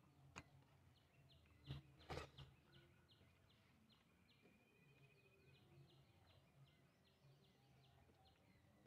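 Near silence: faint outdoor quiet with a small bird repeating short high chirps, about three a second, and a brief trill midway. A few soft clicks sound in the first couple of seconds.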